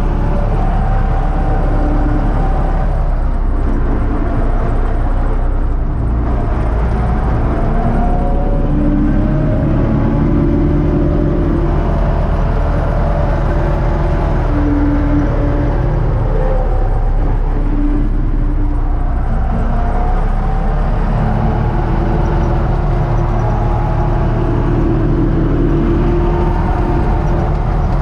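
U650 tractor's diesel engine running steadily under way, with shifting higher tones wavering over a constant low drone.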